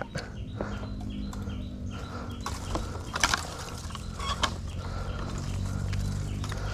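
Fishing reel clicking and ratcheting in irregular bursts while a snagged, hooked fish is worked, with a denser run of clicks about three seconds in, over a steady low hum.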